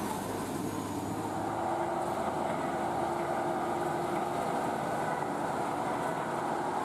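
Steady running of a vehicle engine, a continuous drone with no sharp events.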